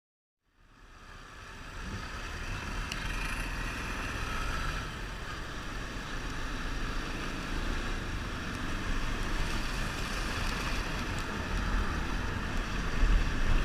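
Motorcycle on the move: wind rushing over a helmet-mounted microphone over the low rumble of the engine, fading in about half a second in and building over the next second or so.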